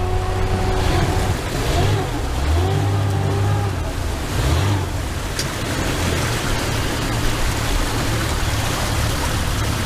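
Speedboat engine running under a steady rush of wind and water. Its pitch shifts up and down over the first few seconds, then it settles into an even roar.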